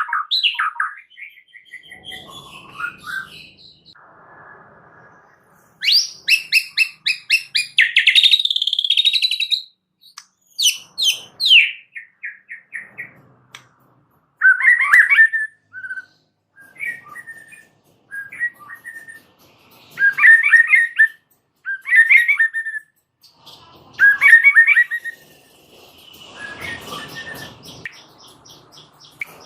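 A white-rumped shama (murai batu) singing in separate bursts with short pauses between them: fast trills, runs of rapidly repeated notes, and chattering phrases.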